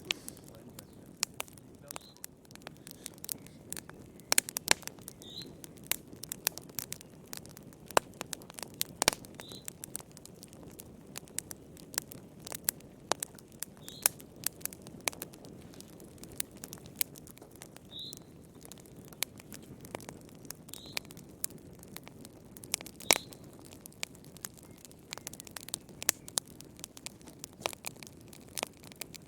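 Wood fire crackling in a fireplace: irregular sharp pops and snaps over a soft steady hiss. A short high bird chirp comes every few seconds.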